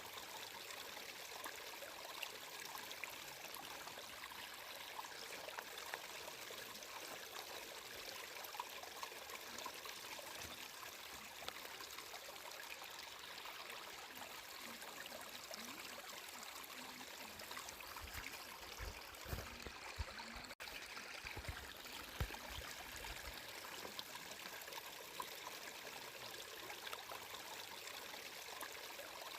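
Water flowing steadily like a small stream, an even rushing trickle. A few low thuds come about two-thirds of the way through, with a split-second break in the sound among them.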